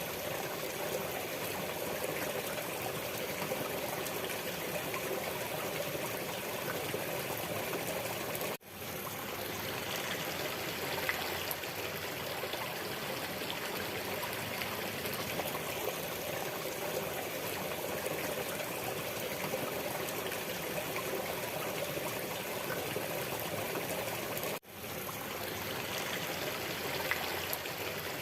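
Waterfall: steady rushing and splashing of falling water. Twice it briefly cuts out and fades back in.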